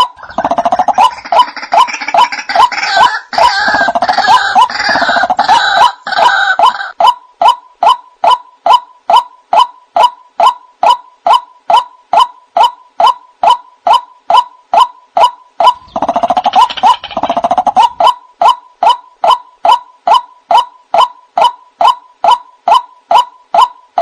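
White-breasted waterhen (ruak-ruak) calling: a monotonous run of short 'kwak' notes, about two and a half a second. Harsher, busier bursts of calling join in at the start and again about two-thirds of the way through.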